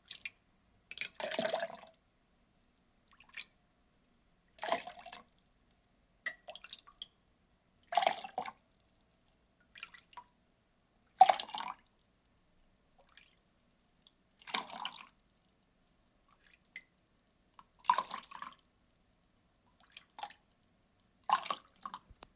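Water poured in short splashes: about seven main bursts, each under a second, coming roughly every three seconds, with fainter little splashes and drips between them.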